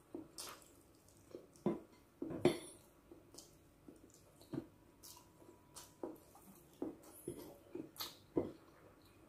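A person eating pancit noodles by hand: faint, wet mouth smacks and clicks of chewing, short and irregular, every half second to a second.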